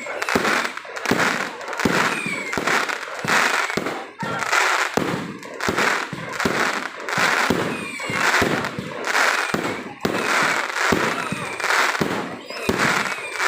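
Fireworks going off in a rapid, continuous barrage: a dense run of sharp bangs and crackles, with louder bursts about once a second.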